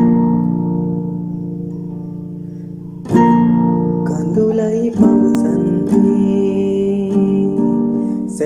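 Instrumental song intro on guitar: a chord strummed at the start and left to ring for about three seconds, a second chord about three seconds in, then busier playing with more notes from about four seconds on.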